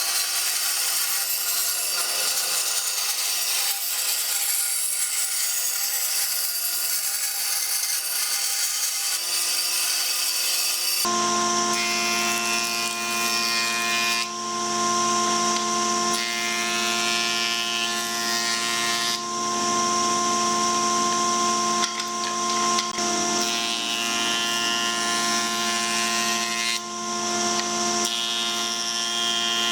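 Power tools working wood. For the first eleven seconds or so there is a high-pitched hissing cut. Then, after an abrupt change, a tool's motor runs with a steady whine and a few brief dips in level.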